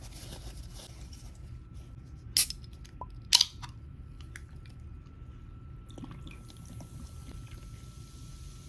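Two sharp clicks about a second apart over a low steady hum, with a faint steady high tone setting in just before the first click.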